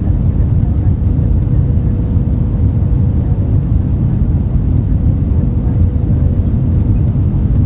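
Airbus A320neo cabin noise: a loud, steady low rumble of engines and airflow, with a faint steady hum running under it.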